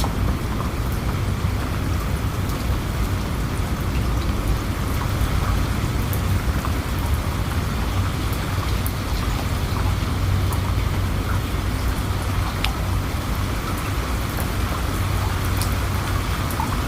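Steady rain falling, with individual drops ticking sharply over a constant low rumble.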